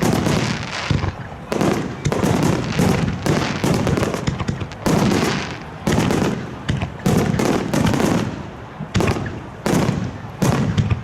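Aerial firework shells bursting in quick succession, a loud boom about every second, each followed by a rolling echo that dies away.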